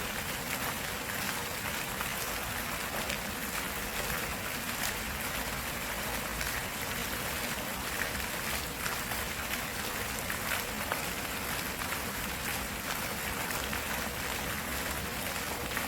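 Water of a stream running steadily, a constant rush with many small splashes.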